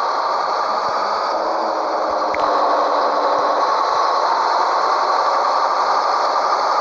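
Scania 113H truck's diesel engine running steadily, getting a little louder after a brief click about two seconds in.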